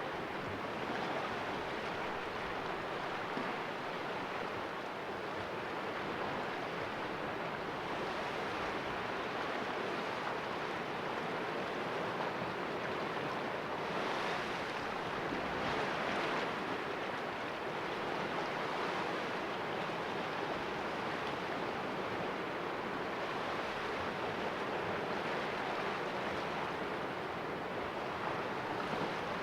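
Sea waves washing against the rocks of a small cove, a continuous surf wash that swells and eases gently, a little fuller about halfway through.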